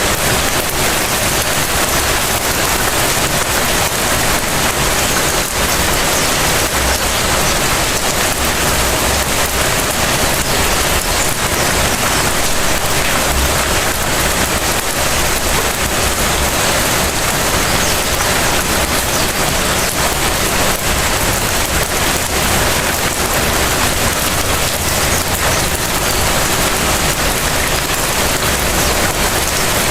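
Light rain falling steadily: an even hiss dense with the patter of individual drops, over a low rumble.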